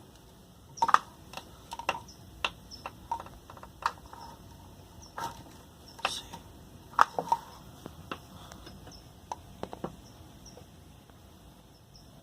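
Rain dripping: irregular sharp drip taps, one to a few a second, over a faint steady background, the loudest about a second in and again near seven seconds.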